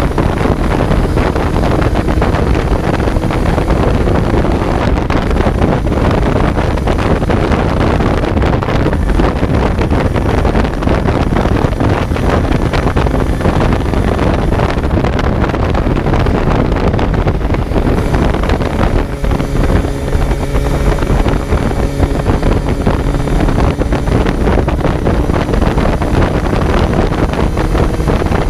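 Kawasaki Z900's inline-four engine running under way, heard on board with heavy wind noise on the microphone. About two-thirds of the way through, the engine note holds at a steady pitch for a few seconds.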